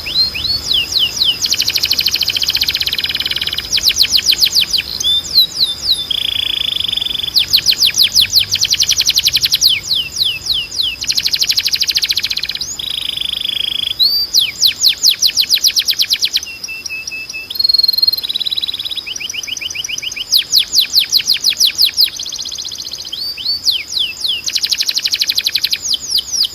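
Domestic canary, a Spanish timbrado, singing a loud, unbroken song. It is made of rapid trills of repeated rising notes grouped into phrases a second or two long, switching from one trill type to the next.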